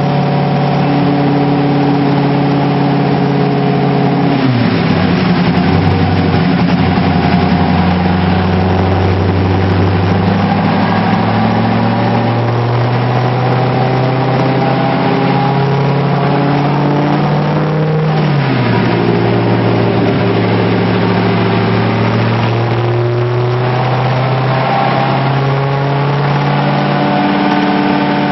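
Factory Five GTM's engine running steadily with the car in gear: its pitch climbs slowly, drops sharply about four seconds in and again around eighteen seconds, then climbs again, as it shifts up through the gears.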